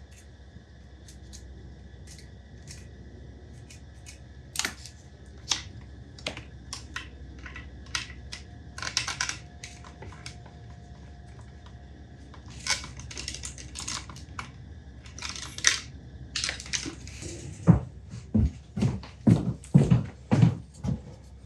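Scattered small clicks and taps of parts being handled and fitted together on a workbench, over a faint steady hum; the knocks come thicker and heavier near the end.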